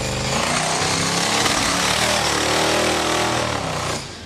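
Ford 302 V8 engine running loud and hard, with a rough roar over its engine note. It stops abruptly near the end.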